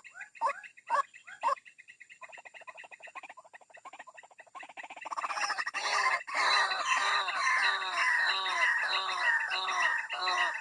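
White-breasted waterhen calls: a few sharp falling notes, then a fast stuttering run of notes, then from about five seconds in a loud, dense run of repeated croaking calls about two a second. This is the call used as a lure to draw the birds out of cover.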